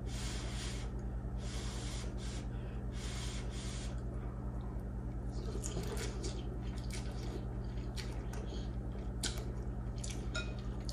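Quiet chewing and wet mouth sounds of someone eating instant noodles, with scattered sharp clicks in the second half, over a steady low electrical hum.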